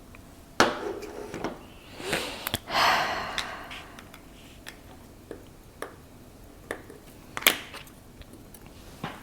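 Small metal watchmaker's tools clicking and tapping against a vintage watch movement during disassembly, in scattered sharp ticks with two louder clicks, about half a second in and near the end. A short hissing rush comes about two to three seconds in.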